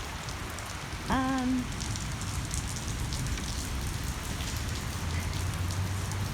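Steady rain falling, with scattered drop ticks close by. About a second in, a short hum-like voice sound.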